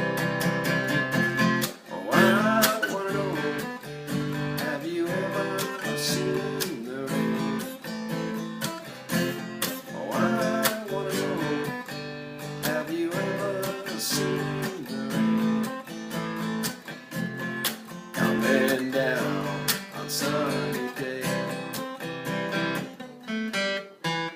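Acoustic guitar strummed in a steady down-up pattern with a palm mute, changing chords through the song's progression.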